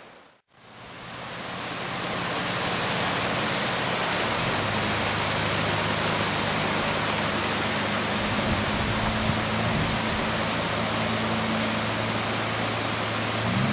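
Heavy rain pouring onto a flooded street, with floodwater running: a steady, even hiss that picks up after a momentary silence near the start. A low steady hum joins it about four seconds in.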